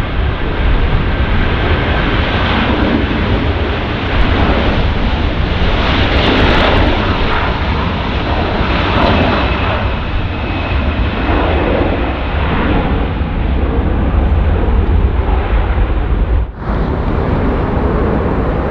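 Airbus A330-200's Rolls-Royce Trent 700 turbofans at takeoff power on the departure roll and climb-out: a loud, steady jet rumble with faint whining tones over it. The sound drops out for a moment near the end.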